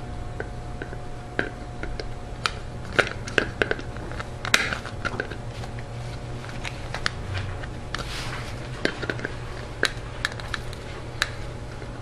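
Scattered light clicks, taps and a brief rustle as a replacement refrigerator temperature control is handled and readied for fitting, over a steady low hum.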